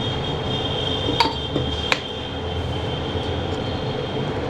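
Steady mechanical hum and hiss with a thin, high, steady whine, and two light clinks about a second and two seconds in.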